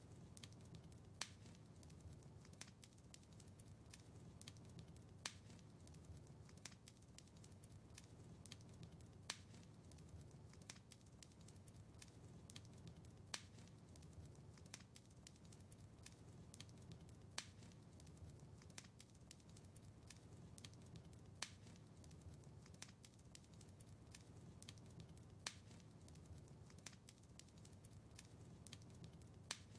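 Wood fire crackling faintly, with sharp pops over a low rumble and a louder pop about every four seconds.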